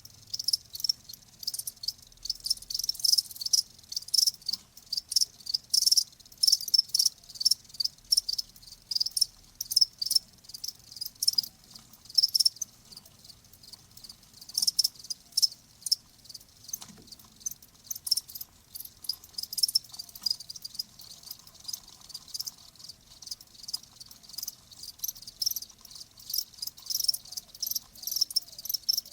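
Crickets chirping: a dense, uneven run of quick, high-pitched chirps.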